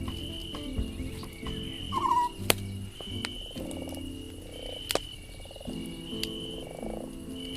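Campfire crackling with a few sharp pops, over a night chorus of croaking calls and a short high chirp repeating about every second and a half.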